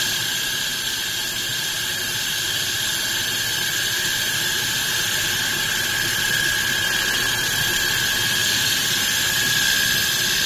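Metal pipe polishing machine running: a steady high-pitched whine over an even hiss.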